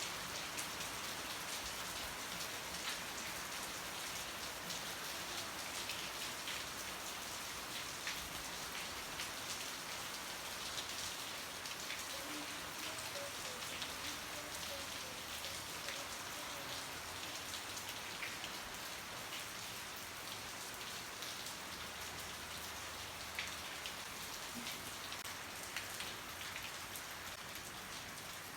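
Heavy rain falling steadily: a constant hiss with sharp ticks of individual drops striking scattered through it.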